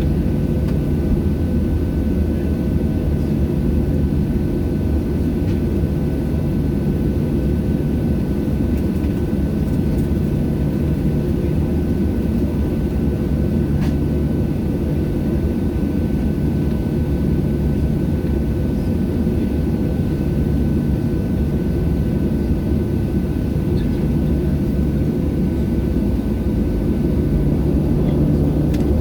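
Steady cabin noise inside a Boeing 737-700 on the ground with its jet engines idling: a low rumble with a thin steady whine above it, swelling slightly near the end.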